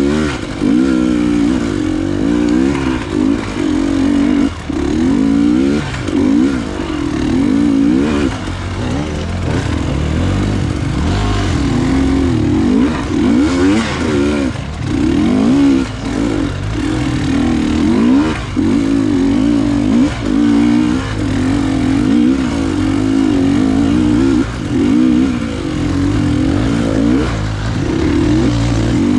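Enduro motorcycle engine under way, revving up and down: its pitch rises and falls every second or two with the throttle.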